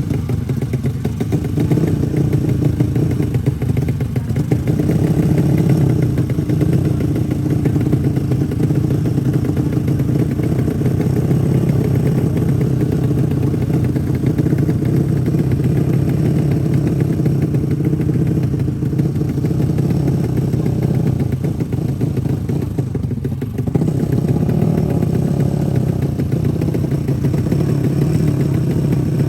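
Small four-stroke drag-race motorcycle engine running steadily, with a brief dip about 23 seconds in.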